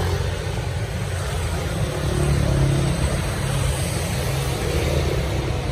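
Daewoo Matiz engine idling, heard from beneath the car as a steady low rumble, over an even hiss of rain.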